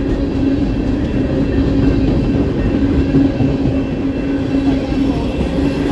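BNSF coal train's hopper cars rolling steadily past: a continuous low rumble of steel wheels on rail, with a steady hum running through it.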